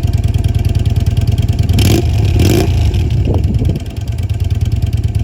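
Yamaha DragStar 250's air-cooled V-twin running at idle through its exhaust, with a pulsing beat. The throttle is blipped twice about two seconds in, and the engine drops back to idle.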